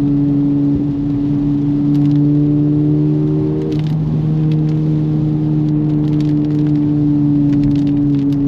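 Honda Civic Type R FL5's turbocharged four-cylinder engine running at a steady note, heard from inside the cabin over wet-road tyre noise, with a brief wobble in pitch about four seconds in.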